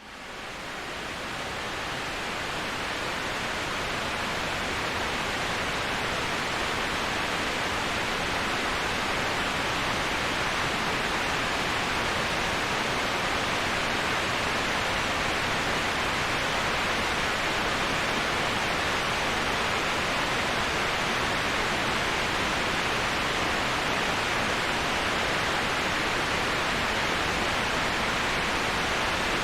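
Steady rushing of a waterfall heard as an even, unbroken hiss with no separate splashes. It fades in from silence over the first couple of seconds.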